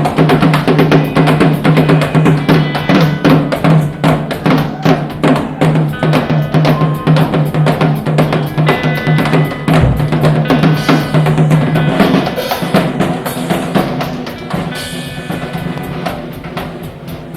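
Live rock band playing an instrumental stretch led by the drum kit, with fast, dense snare and bass-drum hits over a held low note that drops out about twelve seconds in. The playing eases off and gets quieter near the end.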